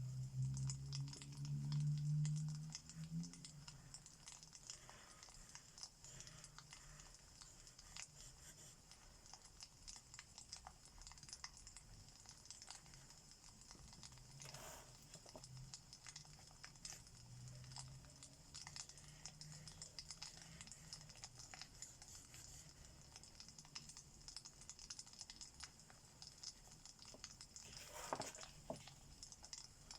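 Faint crackling of a wood fire, full of small ticks and a couple of sharper pops, with a louder low rumble in the first three seconds. The light scratch of alcohol markers on paper runs along with it.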